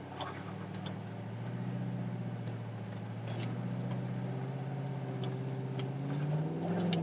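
Car engine running at steady, raised revs during a burnout attempt in a mud hole, its note climbing slightly and getting louder near the end, with scattered light clicks.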